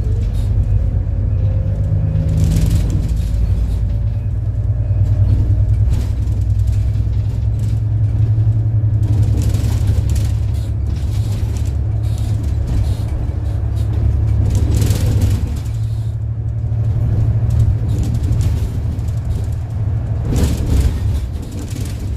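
City bus engine running under way, heard from inside the bus: a steady low drone with road noise, and several short hissing swells over it.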